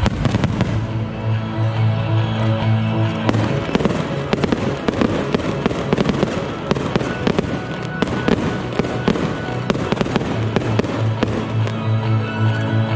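Aerial fireworks going off in a dense barrage of rapid bangs and crackles, heaviest through the middle, over music with a steady bass beat.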